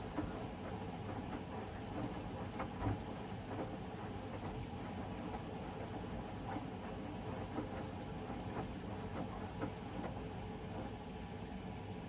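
Hoover DXOA610AHFN-80 front-loading washing machine washing: a steady motor hum as the drum turns the load, with irregular light knocks scattered through.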